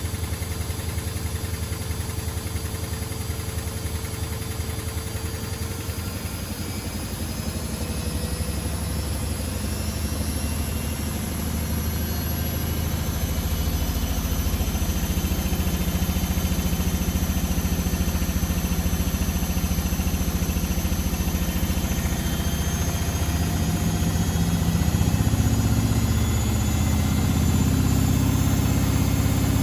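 Privileg Sensation 952 S top-loading washing machine running, with a steady motor hum and a faint high whine that slowly rises in pitch as the drum speeds up. It gets louder about halfway through and again near the end.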